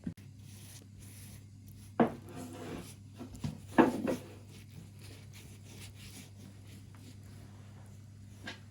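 Two sharp wooden knocks, about two seconds and about four seconds in, each followed by a short scrape or rub, over a low steady hum.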